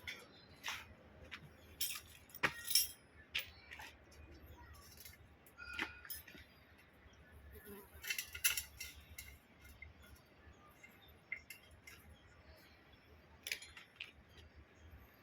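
Metal parts clinking and tapping as they are handled, in scattered sharp clicks with a few clusters, over a faint steady low hum.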